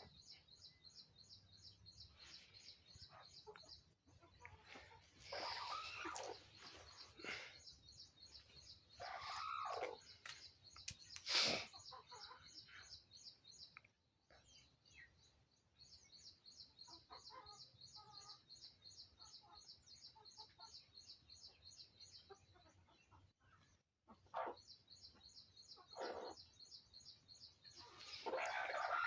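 Birds calling outdoors, with a few louder calls from about five to twelve seconds in and again near the end, over a steady, rapid, high-pitched pulsing chirr.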